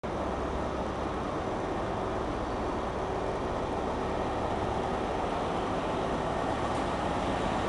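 A train running slowly along the tracks, heard from on board: a steady rumble with a faint steady hum that grows slightly louder.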